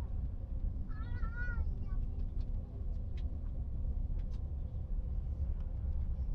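A short wavering animal call about a second in, lasting under a second, over a steady low rumble.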